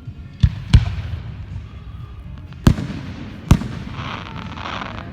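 Fireworks exploding: two sharp bangs in quick succession about half a second in, then two more about three seconds in. A short burst of noise follows near the end.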